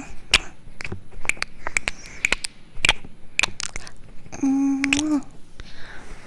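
Irregular sharp close-up clicks and crackles, with a short hummed "mm" a little past the middle.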